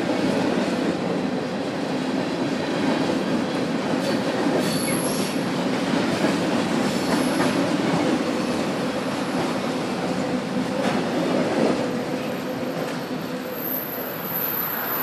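Freight train of tank cars and covered hoppers rolling across a trestle bridge: steady rumble of wheels on rail, with thin high wheel squeals now and then and a longer one near the end.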